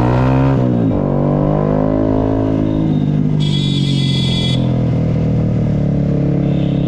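Yamaha R15 motorcycle's single-cylinder engine running under way. Its pitch drops sharply just under a second in, then climbs again as it pulls. A vehicle horn sounds once for about a second midway.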